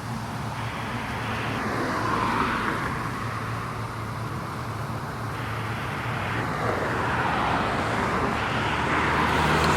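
Street traffic: vehicles passing, the noise swelling about two seconds in and again near the end, over a steady low engine hum.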